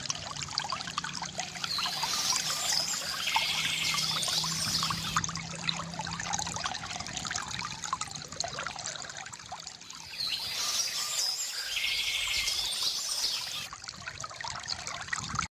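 Water trickling and pouring steadily from a bamboo fountain, with birds chirping in two spells, about two seconds in and again about ten seconds in, each spell including a rapid trill.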